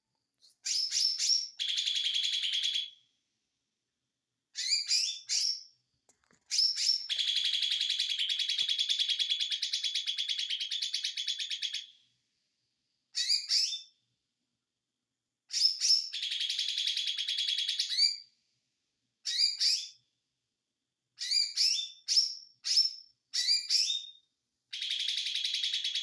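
A caged songbird of the kind keepers call 'ijo mini' singing in bursts: quick sharp chirps leading into long, fast buzzy trills, the longest lasting about five seconds, with short pauses between phrases. Keepers call this 'konslet' singing, meaning excited, rapid-fire song.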